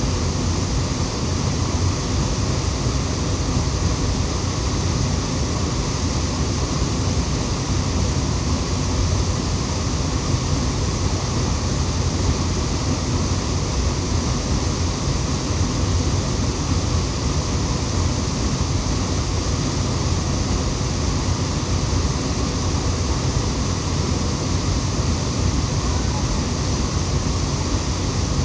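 A waterfall rushing steadily: an even, unbroken roar of falling water that never changes.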